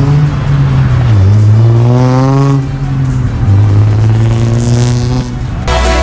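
Car engine revving hard: its pitch climbs and drops back twice. Electronic music cuts in near the end.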